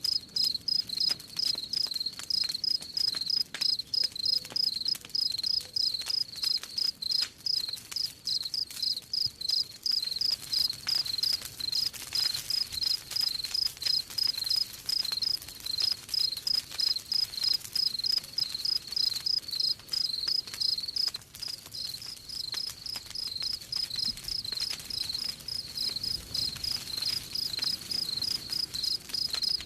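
Crickets chirping in a steady, even rhythm, about four high chirps a second, over the faint crackle of a campfire.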